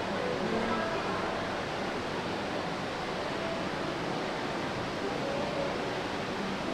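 Shopping-mall ambience: a steady wash of noise with faint, indistinct distant voices in it.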